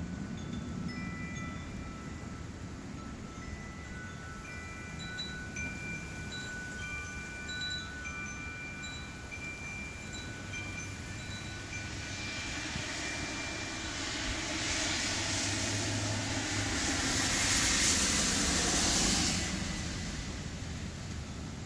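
Wind chimes ringing, several overlapping tones sounding and fading in the wind. Partway through, a gust of wind rushes in, builds to the loudest point near the end, then dies down while the chimes fall quiet.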